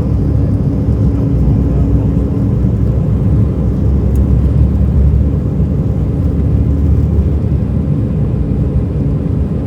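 Airbus A320 cabin noise during takeoff: the jet engines and airframe make a loud, steady low rumble heard from inside the cabin.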